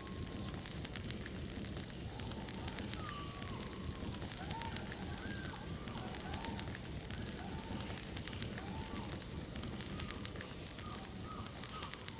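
Bonfire burning with a steady rush and many small sharp crackles and snaps. Faint short rising-and-falling calls sound in the distance from about three seconds in.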